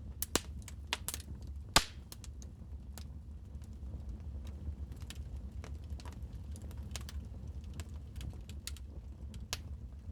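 Wood fire crackling in a fireplace: irregular sharp pops and snaps over a low steady rumble, with a cluster of pops in the first two seconds, the loudest near the end of that cluster.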